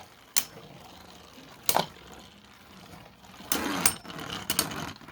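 Two Beyblade spinning tops battling in a plastic stadium: sharp clacks as they collide, a few seconds apart, with a longer rattling clash a little past the middle, over the faint whir of the spinning tops.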